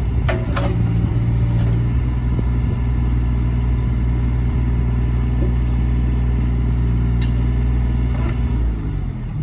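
Takeuchi TB016 mini excavator's diesel engine running steadily at an even speed, with a few sharp metallic clicks: two in the first second and two more near the end. The engine note dips slightly just before the end.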